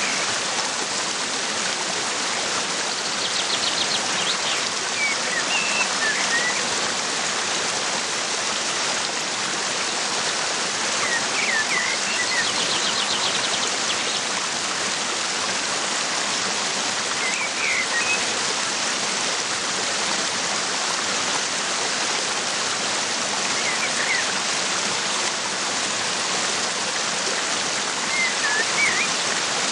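A waterfall rushing steadily, with a bird giving short chirps every few seconds and two brief buzzy trills, about four seconds and thirteen seconds in.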